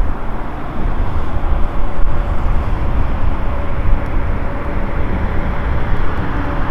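Wood campfire burning, a steady low rumble with a few faint crackles.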